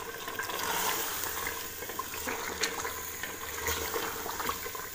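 Mutton and potatoes frying in oil in an aluminium pot, sizzling steadily as a wooden spatula stirs them, with a few light clicks of the spatula against the pot.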